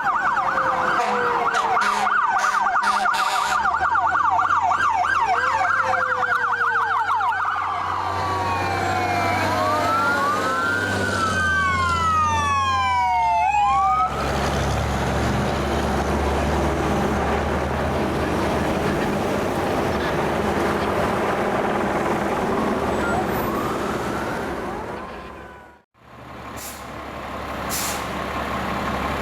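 An emergency vehicle siren cycling rapidly in a yelp, then slowing into rising and falling wail sweeps, over a truck's engine. About halfway through the siren stops and the truck's engine and road noise carry on, dipping out briefly near the end.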